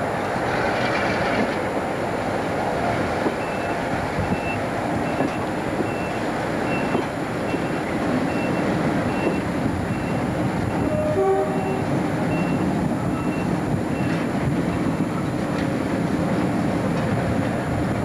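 Passenger train running slowly over dockside track, heard from one of its coaches: a steady rumble of wheels and running gear. About eleven seconds in comes a short horn note.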